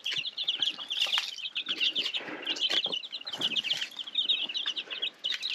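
A brood of young chickens peeping nonstop in a dense chorus of short, high chirps, with scattered rustles and knocks.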